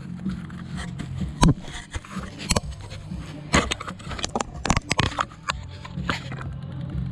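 Irregular clicks and knocks of hand tools and parts being handled during a motorcycle oil change, over a steady low hum.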